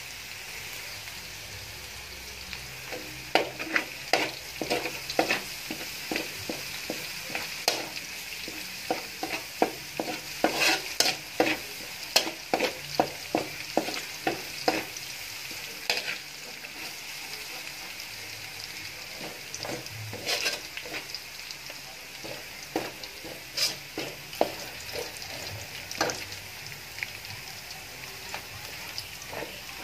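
Chopped red chilli and minced aromatics sizzling steadily in oil in a steel wok, while a metal turner stirs them, scraping and clicking against the pan. The clicks come thick and fast through the first half and grow sparser later.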